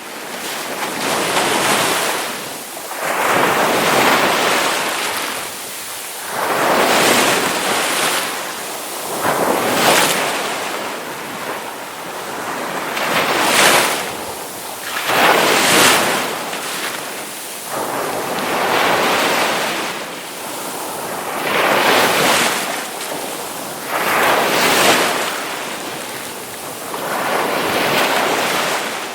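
Ocean waves breaking on the shore, one surge after another about every two to three seconds, each swelling and washing back.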